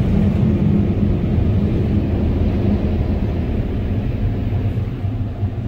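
Tunnel car wash equipment running, heard from inside the car's cabin as a steady low rumble.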